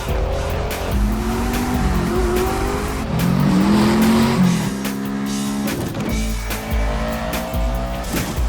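Car engines revving, with rising and falling pitch, and tires squealing, mixed over an action-film music score.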